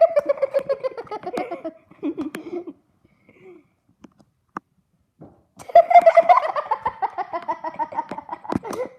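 A person laughing in two long bouts of rapid, pulsed laughter that slides down in pitch, one at the start and one starting about six seconds in, with a few faint clicks in the pause between.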